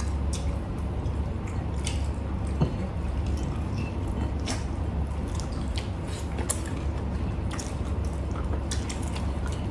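Close-up eating sounds: wet chewing and smacking, with many small scattered clicks, over a steady low hum.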